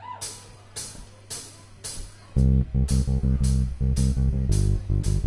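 Live rock band starting a song: the drummer keeps a steady beat of cymbal hits about twice a second, then a little over two seconds in the bass guitar, electric guitar and drum kit come in loudly together.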